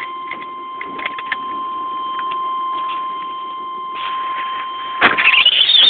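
A steady high electronic beep tone held for about five seconds, with scattered clicks and ticks. Near the end a loud warbling, alarm-like sound starts and the steady tone stops.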